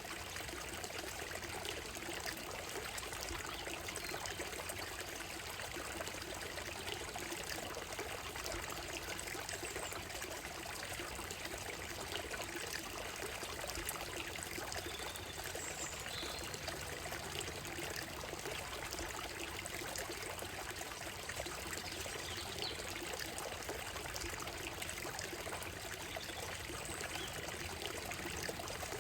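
Shallow stream running steadily over stones and a gravel bed, a continuous trickling and splashing. A few faint, brief bird calls come through around the middle.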